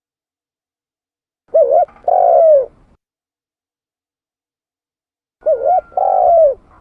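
Spotted dove (tekukur) cooing: two calls about four seconds apart, each a quick wavering double note followed by a longer coo that falls away at the end.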